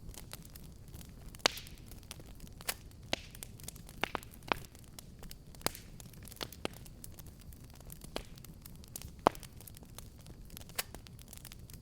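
Fireplace fire crackling: irregular sharp pops and snaps, two of them louder than the rest, over a steady low rumble of burning.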